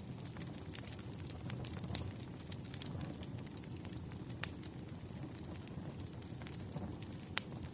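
Burning firewood crackling: a steady low rumble of flames with scattered sharp pops, the loudest about four and a half seconds in and again near the end.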